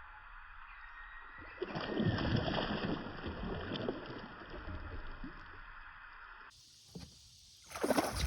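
Water splashing as a bass blows up on a topwater lure: a sudden splash about a second and a half in, followed by sloshing that fades over a few seconds, then another burst of splashing near the end.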